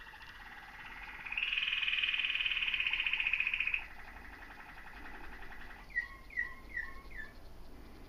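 Bird calls: a long, rapid trill that gets louder about a second in and stops about halfway through, then four short falling chirps in quick succession.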